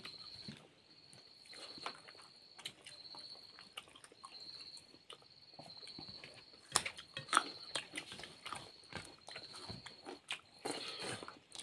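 Close-up eating sounds of two people eating with their hands: wet chewing and smacking, with a few sharp clicks, the loudest a pair a little over halfway through. Behind them, insects trill at one high pitch in repeated bursts of about a second.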